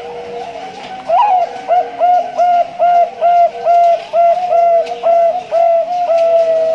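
Male Bangkok-type zebra dove (perkutut) singing. An upswept opening note about a second in leads into a quick, even run of about a dozen short coos, two or three a second, ending on a longer held note.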